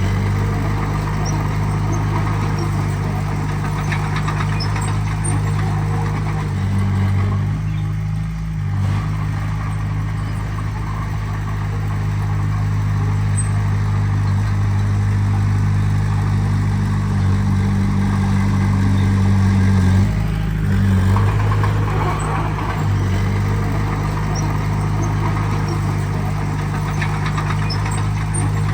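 Heavy earthmoving machine's diesel engine running steadily under load. Its pitch drops and then rises again about eight seconds in and about twenty seconds in, as the load or throttle changes.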